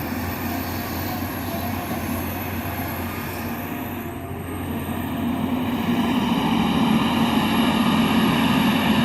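Diesel engine and hydraulics of a John Deere 350G LC excavator working, a steady drone with a high whine; about halfway through it grows louder and stays up, as under heavier digging load.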